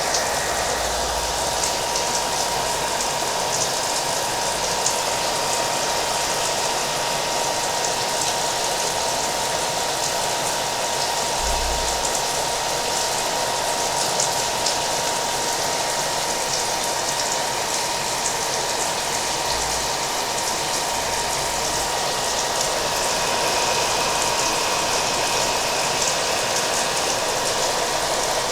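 Hair dryer blowing steadily, its motor giving a thin constant whine, mixed with rain pattering. The sound stays even throughout, with a few faint low thumps.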